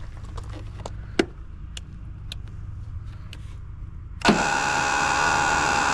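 A few light clicks, then about four seconds in the Westinghouse iGen4500DF inverter generator's engine fires on a shot of starting fluid and keeps running loudly and steadily. Running on starting fluid points to a problem in the old fuel.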